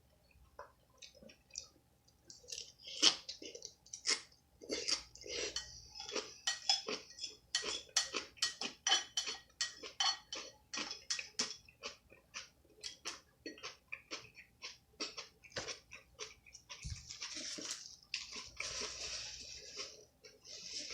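Close-miked eating: wet chewing with mouth clicks and smacks, about two to three a second, then a longer rustling, crunching noise near the end.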